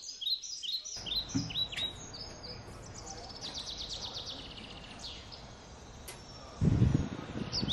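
Small birds chirping in rapid, repeated short notes, with a quick trill in the middle, over faint outdoor background noise. A low muffled rumble comes in about two-thirds of the way through.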